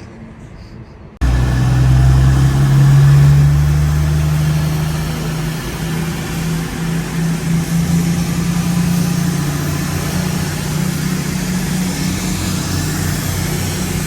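Diesel train engine running close by with a steady low drone. It starts suddenly about a second in, and a faint high whine rises near the end.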